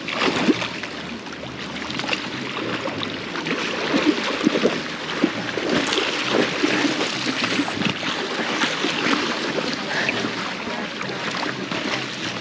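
Rushing river water with irregular splashing and sloshing close by.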